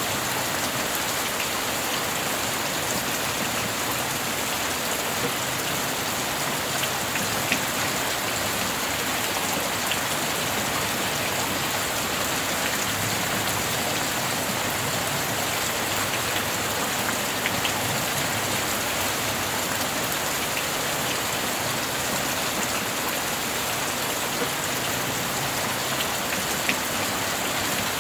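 Steady heavy rain falling on a surface, an even hiss with scattered individual drops ticking sharply through it.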